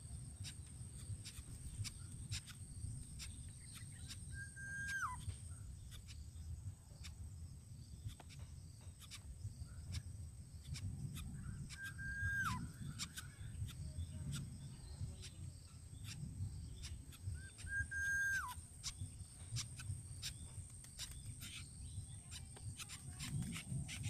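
A bird calling three times, about six seconds apart: each call is a short held whistle that drops sharply in pitch at its end. Beneath it are a steady thin high-pitched whine, scattered faint clicks and a low rumble.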